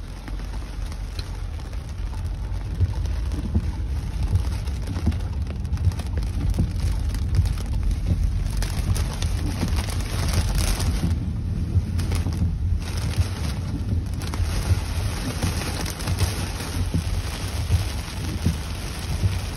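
Heavy rain falling on a car's windshield and roof, heard from inside the car as a steady patter of drops over a constant low rumble.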